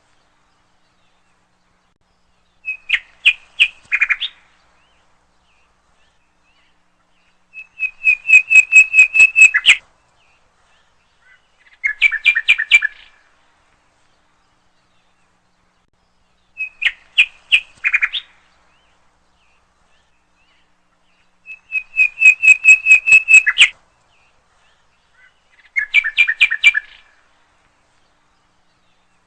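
A bird calling in short bursts of quick, repeated chirps, about six phrases a few seconds apart with silence between them.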